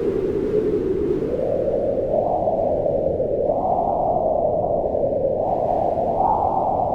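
Strong wind howling, a rushing noise with a hollow pitch that rises and falls in slow gusts, highest about halfway and again near the end.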